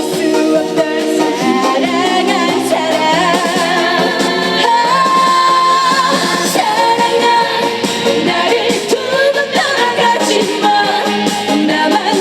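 A female trot singer sings an upbeat song over full band accompaniment, holding one long note with vibrato about five seconds in.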